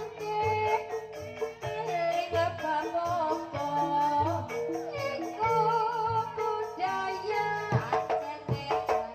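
A sinden's singing voice wavering through a melody over Javanese-style instrumental accompaniment with repeated low notes, with a quick run of drum strokes near the end.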